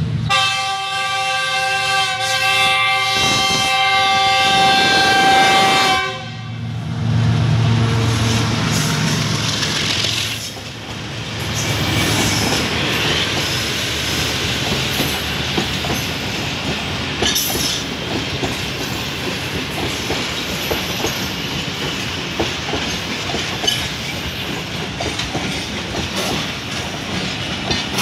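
Pakistan Railways diesel locomotive's air horn sounding one steady multi-note chord for about six seconds as the express approaches. A low rumble follows as the locomotive passes, then the passenger coaches roll by with a continuous clickety-clack of wheels over the rail joints.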